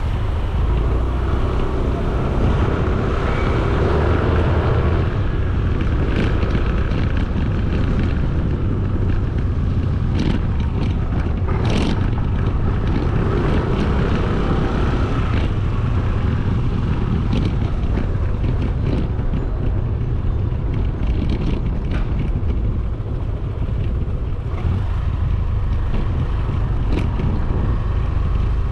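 Riding on a motorcycle through city traffic: steady wind buffeting on the microphone over the engine and road noise, with a few brief clicks.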